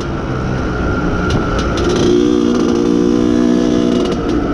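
IZh Planeta Sport motorcycle's single-cylinder two-stroke engine running under load while riding, held at moderate revs because the engine is still being run in. Its note is rougher at first and settles into a steady tone about two seconds in.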